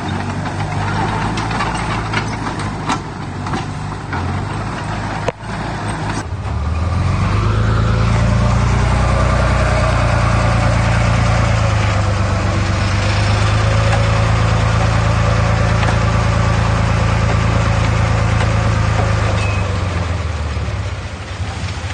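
Heavy diesel engine of an earthmoving machine, running with a few sharp knocks. About six seconds in it revs up and works hard under load at a steady, loud note, then eases off near the end.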